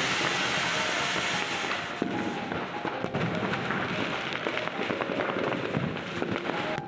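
Firecrackers and fireworks going off all around: a dense crackling hiss for the first couple of seconds, then a rapid string of many small cracks and pops.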